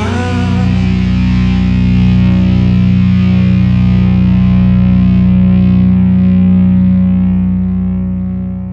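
Outro music: a distorted electric guitar holding a sustained chord that rings out and fades away near the end.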